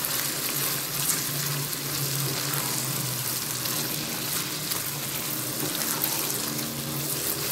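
Aubergine and potato pieces sizzling steadily in oil in a non-stick wok while they are stirred with a silicone spatula, an even hiss.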